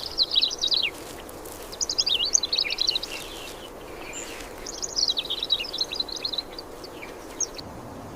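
Birds chirping in three quick, high-pitched bouts over a steady background hiss.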